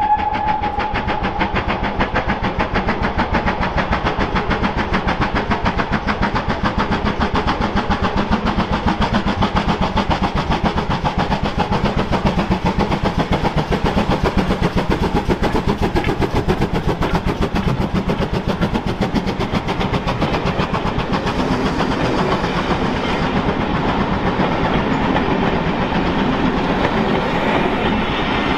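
GWR 4575-class Prairie tank steam locomotive 5541 passing with its train, a rapid, even run of exhaust beats and wheels clattering on the rails. The tail of its whistle fades out at the very start.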